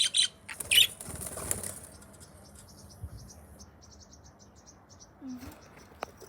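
Pet budgies chirping: several loud, sharp chirps in the first two seconds, then a run of faint, quick, high ticking chirps.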